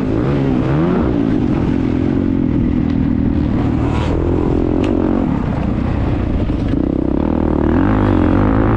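Motocross bike engine heard on board, its revs rising and falling repeatedly as the rider works the throttle and gears. A single sharp knock about halfway through.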